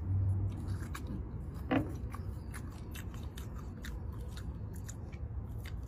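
Chewing and biting into deep-fried chicken wings: irregular small crunches and clicks, with one louder crunch about two seconds in.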